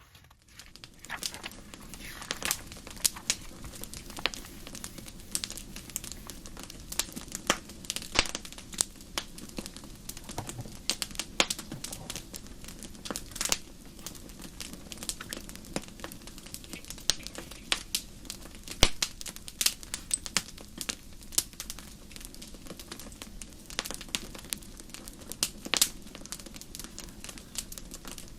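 Wood fire crackling: irregular sharp pops and snaps, several a second, over a low steady rush.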